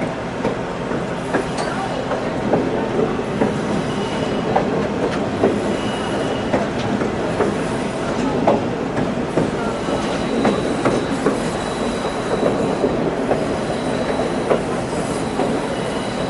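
Excursion train cars running on the rails: a steady rumble and rattle with frequent clicks of wheels over the track, and a faint high wheel squeal that comes and goes, longest in the second half.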